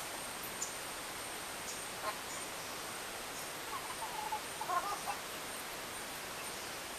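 A bird gives a quick run of short, low notes a little past the middle, over a steady hiss, with one short click about two seconds in.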